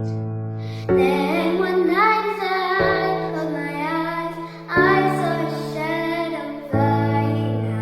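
A group of young girls singing a slow pop ballad together over piano chords struck about every two seconds. The voices come in about a second in.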